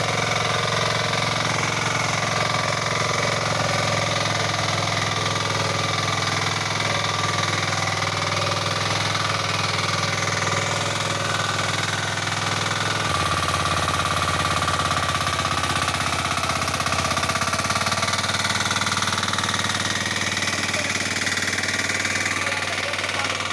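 Varsha power weeder's 9 hp diesel engine running steadily under load while its tines till the soil, with a slight change in engine note about halfway through.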